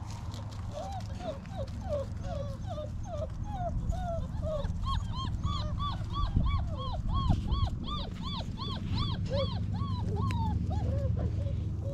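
Basset hound whining in a rapid string of short, arching high whines, about three a second, that climb higher in pitch about five seconds in and drop back near the end.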